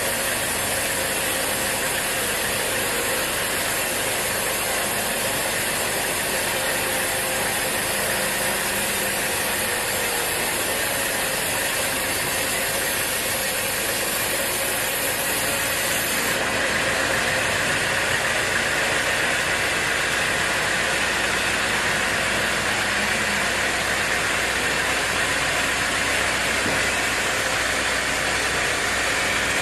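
Sawmill machinery running steadily: a loud, even mechanical noise that gets a little louder and brighter about halfway through.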